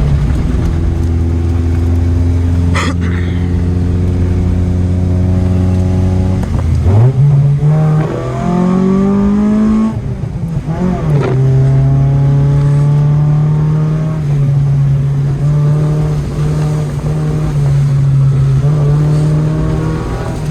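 Car engine and exhaust running loudly at a steady speed, then revving up for about three seconds. It drops sharply, as at a gear change, and settles into a steady cruise at higher revs.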